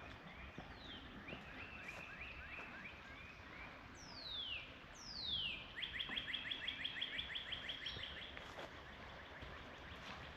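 Wild songbirds calling: fast chattering trills of short notes, broken around four and five seconds in by two clear whistles that sweep steeply downward, the second trill the loudest stretch.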